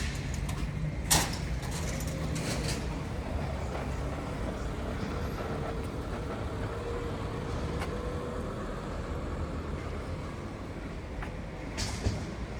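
Steady low rumble with a sharp click about a second in and a few more clicks near the end.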